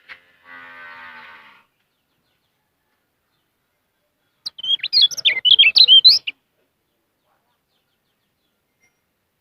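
Kecial kuning songbird singing a rapid, warbling burst of high chirps lasting about two seconds, midway through. Earlier comes a fainter, buzzy, droning tone lasting about a second.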